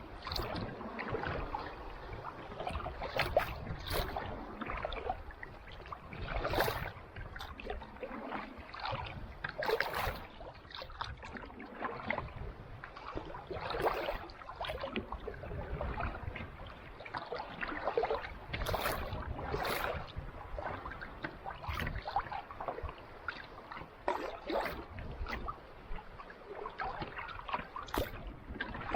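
Kayak paddle strokes on calm sea water: the blade dips and splashes every few seconds, with drips and a soft wash of water between strokes.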